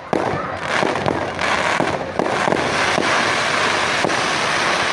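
Fireworks going off: a quick run of sharp bangs and pops, turning into a dense, continuous crackle after about two and a half seconds.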